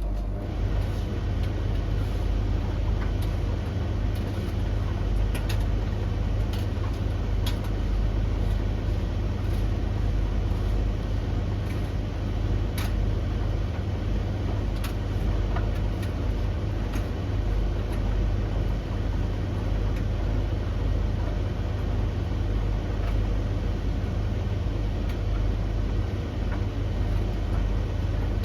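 Three domestic tumble dryers running together mid-cycle: a steady drum-and-motor rumble, with occasional light clicks every few seconds.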